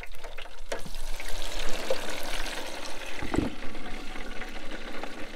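Meat sizzling in hot fat, a steady frying hiss, with a few light clicks of a knife on a plate near the start.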